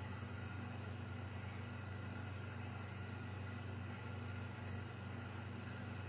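Steady hiss with a low electrical hum: a home video camera's own recording noise in a quiet room, with no other event.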